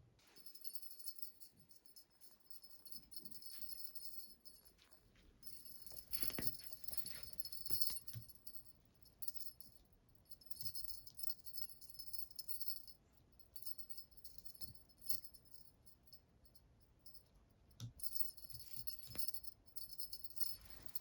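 Small bell jingling on and off in repeated bouts, with scattered light knocks and taps.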